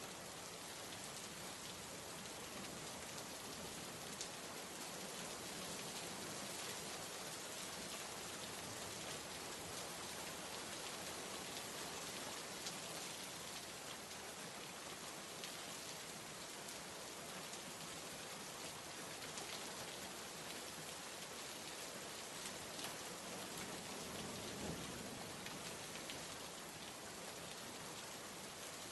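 Steady rain falling: an even hiss with scattered separate drop taps.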